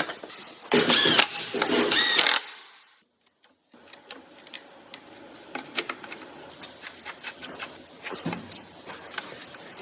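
A power tool runs in two short bursts with a whine, then light metallic clicks and clatter of tools and parts being handled during engine assembly.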